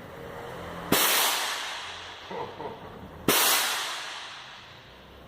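Scania truck's air suspension letting out air in two sharp hisses, about a second in and again near the middle, each starting suddenly and fading over a second or two, as the suspension is dumped to lower the truck.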